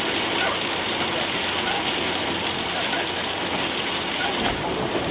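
Steady rush of heavy rain and tyres on a wet road, heard from inside a moving car, with small scattered ticks of drops on the windscreen.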